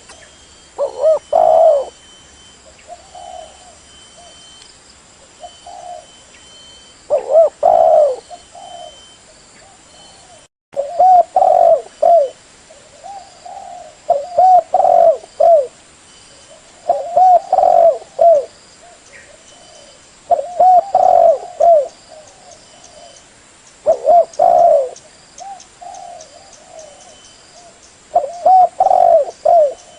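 Spotted dove (tekukur) cooing: phrases of several short, low coos repeating every three to four seconds. There is a brief dropout about ten seconds in.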